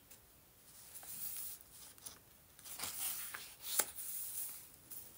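Soft rustling and rubbing of thick paper and fabric as journal pages and pockets are handled and turned, with a sharp click about four seconds in.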